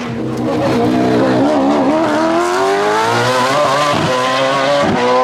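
Race car engine accelerating hard up a hill climb, its pitch rising steadily through a gear, with two short sharp cracks near the end.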